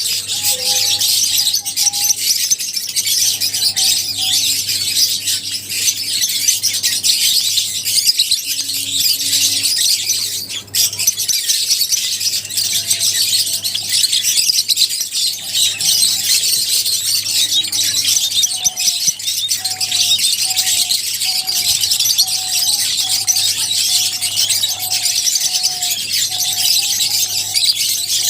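Many lovebirds chirping together in a dense, continuous high-pitched chatter.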